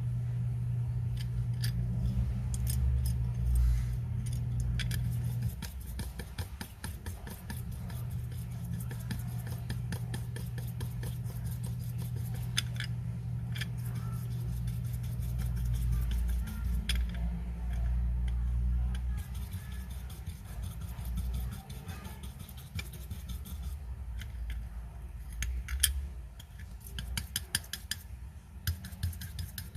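Light metallic clicks, taps and scrapes of small watchmaker's tools handling watch parts, irregular and scattered, over a steady low hum.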